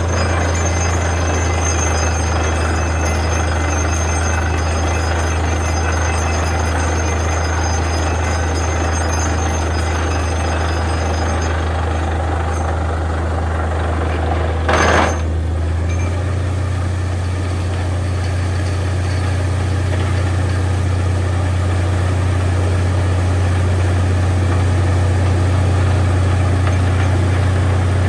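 Borewell drilling rig's diesel engine running steadily under load, with a short burst of noise about halfway through.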